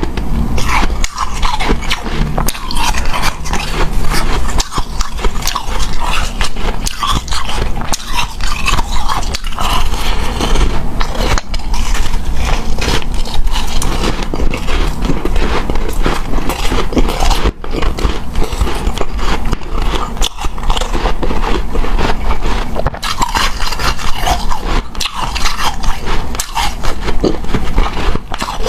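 Close-miked chewing and crunching of hard, snow-like refrozen ice powder (freezer frost), with many quick, dense crunches and a soft squeak as the packed ice is bitten and ground between the teeth.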